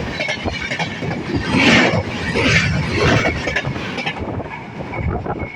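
Express passenger train passing at speed, its wheels clattering and rumbling over the track in surges, getting quieter near the end.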